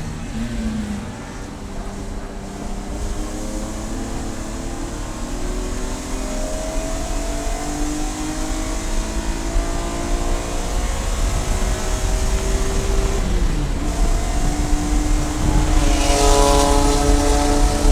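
Race car engine under load, its pitch climbing slowly as it accelerates, with a gear change about thirteen seconds in, after which it climbs again and grows louder near the end, over steady wind and road noise.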